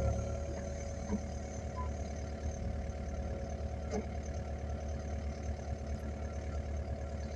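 Engine running steadily at idle, a low even hum, with faint knocks about a second and four seconds in.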